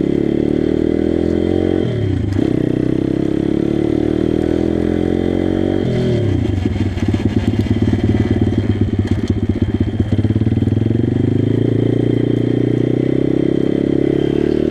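Pit bike engine under way: the revs climb and fall sharply twice, about two and six seconds in. After the second drop it runs rough and uneven at lower revs for a few seconds, then pulls steadily, slowly rising again.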